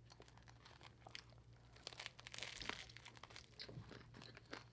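A person eating: faint crunching bites and chewing of crunchy food, with a crinkle of wrapping or paper about halfway through.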